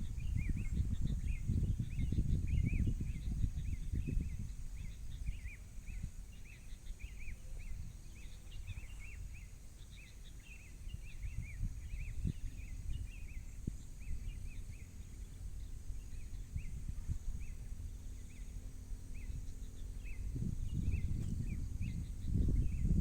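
Gusty wind buffeting the microphone in a low rumble, strongest at the start and again near the end. Many short high chirps repeat throughout.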